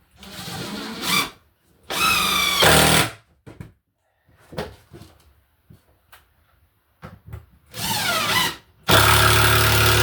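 Power drill driving screws into wood in four bursts, its motor whine climbing in pitch as it spins up, the longest burst near the end.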